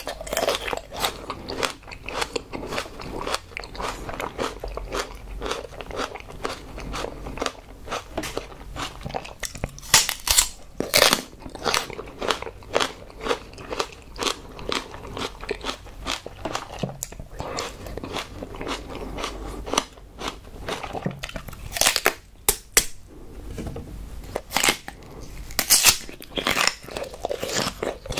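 Close-miked mouth sounds of a person biting and chewing raw aloe vera leaf: continuous wet crunching and crackling, with a few louder bites about ten seconds in and again in the last few seconds.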